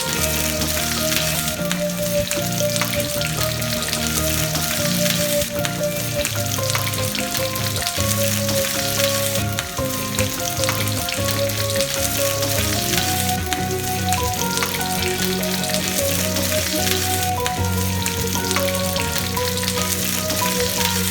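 Food sizzling steadily as it fries in hot oil, with background music playing over it.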